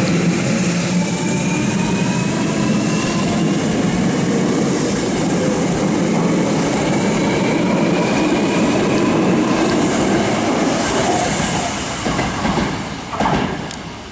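Hankyu electric train running along the track, a steady rumble of wheels on rail with faint whining tones that glide in pitch. It fades away about twelve seconds in, with a brief louder burst just after.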